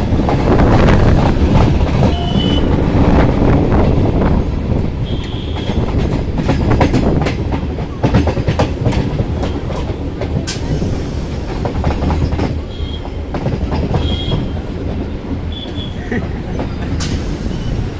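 Local passenger train running, heard from on board: a steady rumble of the coach with the wheels clicking over rail joints. Brief high squeaks come and go several times.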